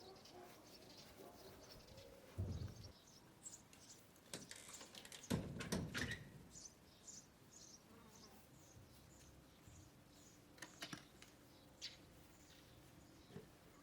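Faint birds chirping, a series of short high notes repeating about twice a second, with a few scattered clicks and knocks, the loudest a little before the middle.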